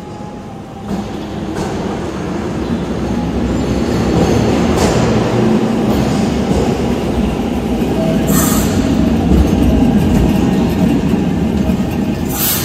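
Vintage tram running on street rails, growing steadily louder as it approaches, with two short hisses, about eight seconds in and near the end.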